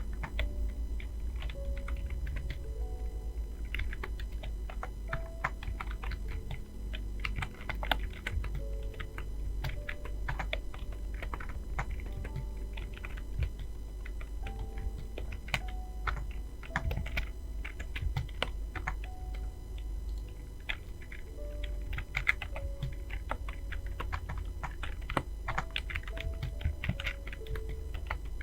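Fast, continuous typing on a computer keyboard: a dense, irregular stream of key clicks, with soft background music of short melodic notes underneath.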